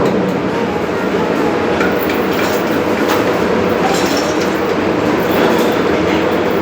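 Ship's engine running, a loud, steady mechanical din with a constant hum.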